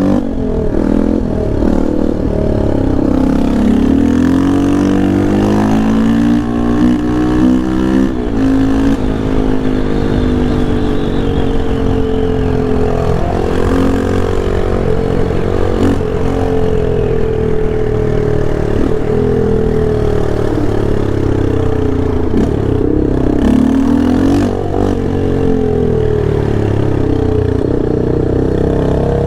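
Yamaha Lander 250's single-cylinder four-stroke engine under hard riding: the pitch climbs as it accelerates and drops sharply at each gear change, several times over, with the engine easing off now and then between pulls.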